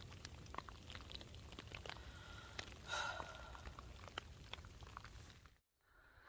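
Scattered raindrops ticking irregularly over a low rumble, with one brief higher-pitched sound about three seconds in. The sound cuts off suddenly near the end.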